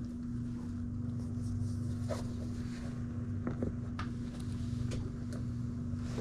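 A steady low hum with a constant tone and a pulsing rumble beneath it, with a few light knocks and clicks scattered over it.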